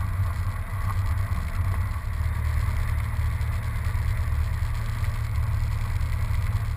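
A steady low engine drone, even and unchanging throughout.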